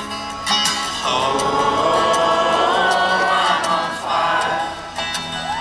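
Live band performance: several voices hold long wordless notes in harmony from about a second in, over the band's accompaniment.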